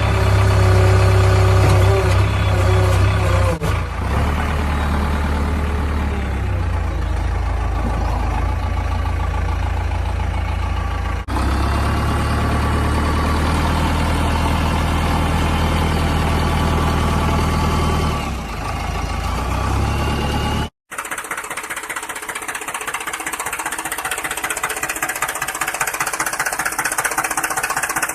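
An engine running steadily, with a low drone and knocking. After a sudden cut near the end, a different, higher-pitched rattling engine sound takes over.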